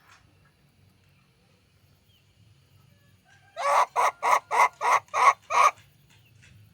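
A quick series of seven loud animal calls, about three a second, lasting about two seconds.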